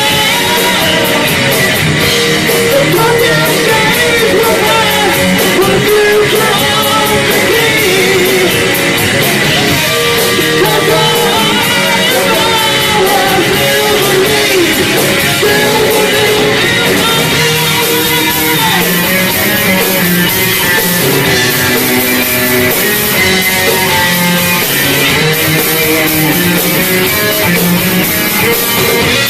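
Heavy metal band playing live: distorted electric guitars, bass and drums with a voice singing over them. The drumming shifts to a steady cymbal wash about halfway through.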